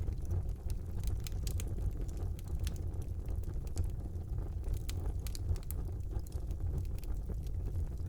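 Wood fire burning in a fireplace: a steady low rumble of flames with frequent, irregular crackles and pops from the burning logs.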